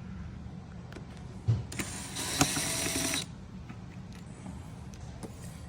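A knock, then a cordless electric screwdriver whirring for about a second and a half as it backs out a dashboard trim screw, stopping abruptly, over a low steady hum.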